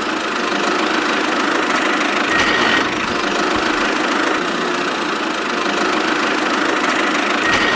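Engine running steadily at idle, like a tractor, with two brief high tones about five seconds apart.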